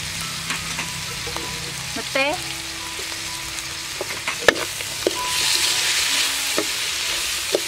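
Snake meat sizzling as it is stir-fried in a steel wok, the metal spatula scraping and clicking against the pan. The sizzle grows louder about five seconds in as the meat and freshly added chilies are stirred.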